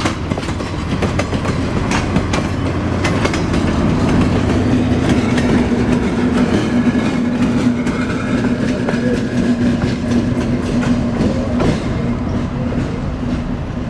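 Train rolling by, its wheels clicking over rail joints over a steady rumble, with a low steady drone through the middle.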